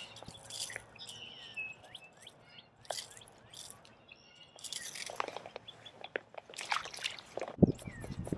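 Small birds chirping in short repeated calls, over scattered clicks and rustles of hands unhooking a small bass from a jerkbait, with a sharper knock near the end.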